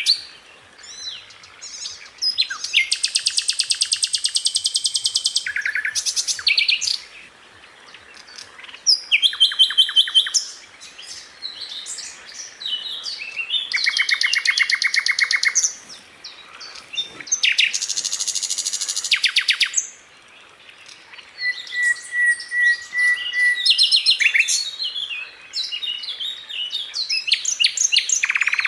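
Sikatan londo flycatcher singing: long fast rolls of rapidly repeated high notes, broken up by varied quick chirps and a short pulsing whistle.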